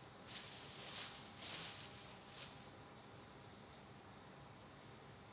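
Faint rustling and scraping of packaging being handled, in four short bursts within the first two and a half seconds.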